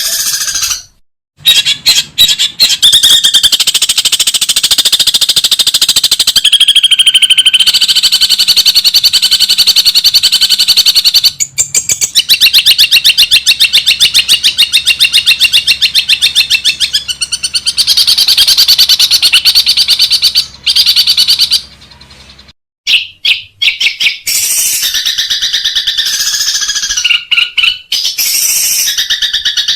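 Long-tailed shrike (cendet) giving a loud, harsh chattering song of fast repeated notes, in bouts broken by abrupt cuts about a second in and about two-thirds through.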